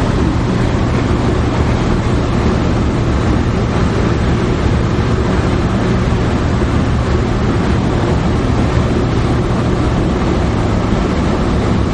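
Steady road noise and engine hum inside a car driving on a highway.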